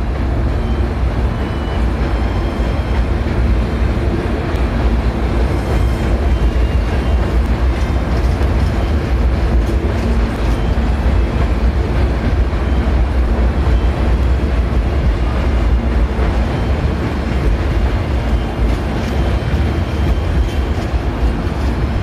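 Hankyu 1000 series electric train pulling out of the platform and running past, a steady low rumble of wheels and motors.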